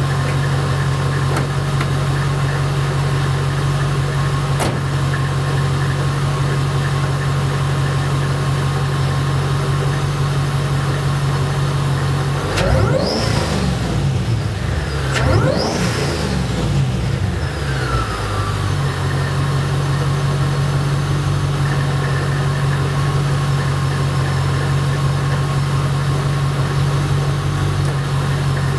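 Supercharged 5.4-litre V8 of a RENNtech-tuned 2003 Mercedes SL55 AMG, fitted with long-tube headers and sport cats, idling steadily. About halfway through it is revved twice in quick succession, then settles back to idle.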